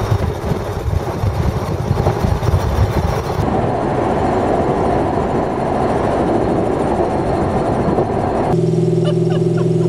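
Twin-turbocharged 427 cubic-inch LSX V8 of a Factory Five GTM running as the car drives along the street, mixed with road noise. The sound changes abruptly about three and a half seconds in and again near the end, where it settles into a steady drone.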